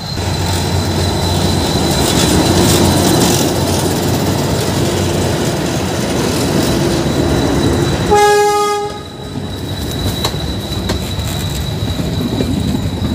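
Metre-gauge diesel locomotive passing close by with its engine running loud. It gives one short horn blast about eight seconds in, and then the coaches roll past with wheels clattering on the rails.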